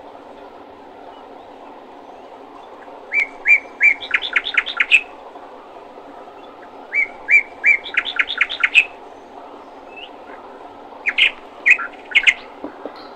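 A songbird singing three repeated phrases, each a few separate chirps running into a quick trill, about four seconds apart, over a steady low background noise.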